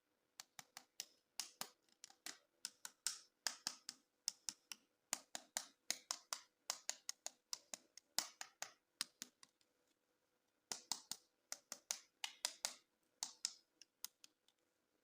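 Close-up handling of plastic toys and packaging: a quick, irregular run of sharp plastic clicks and taps, with a short pause about ten seconds in.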